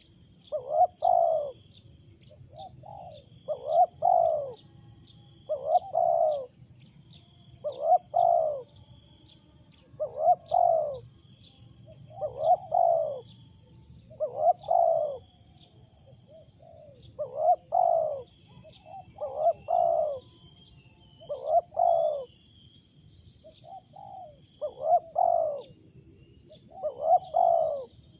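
Spotted dove cooing, a loud short phrase repeated about every two seconds, sometimes led by a softer note. Small birds chirp faintly behind it over a steady high insect-like hum.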